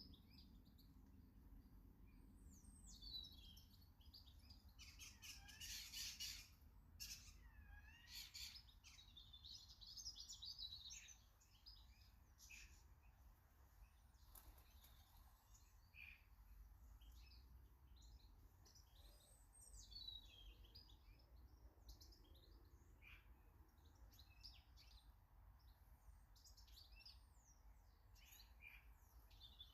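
Garden birds singing and chirping faintly, with overlapping song phrases and short calls. They are busiest in the first third and thin out to scattered chirps afterwards.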